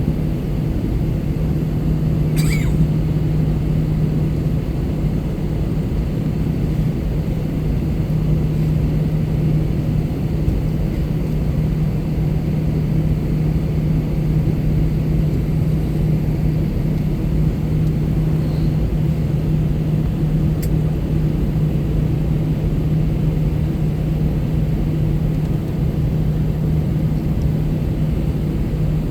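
Steady drone of an Airbus A321-200 heard inside the passenger cabin: an even low rumble with a constant hum. There is a brief click about two and a half seconds in.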